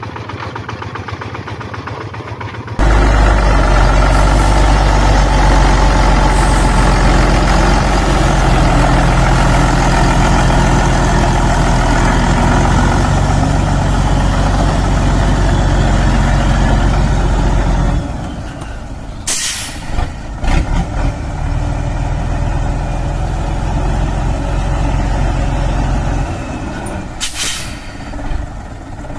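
A diesel engine, likely a walking tractor's, running steadily and loud. It jumps up sharply about three seconds in and drops back later, with two short hisses in the second half.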